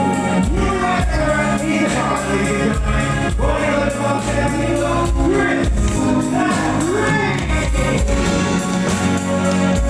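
Music played loud through column PA speakers: a singer with backing voices over a steady beat and heavy bass.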